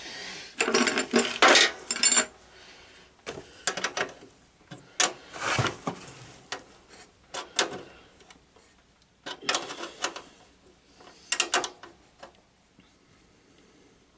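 A hand tool tightening down the screw that holds the positive wire's terminal on a garden tractor, heard as short bouts of clicking and scraping with pauses between them.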